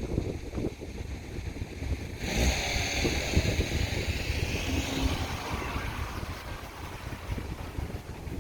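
Wind buffeting the microphone in uneven low gusts. About two seconds in, a rushing hiss starts abruptly and slowly fades over the next few seconds.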